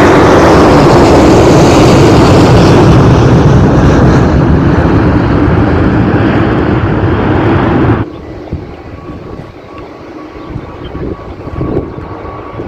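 Jet airliner taking off close by, its engines giving a loud, steady roar. About eight seconds in the sound drops suddenly to a much quieter, distant jet rumble.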